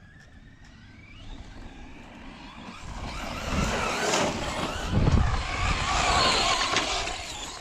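Radio-controlled off-road car driving over dirt, its motor whining and its tyres throwing up dirt, getting louder about three seconds in.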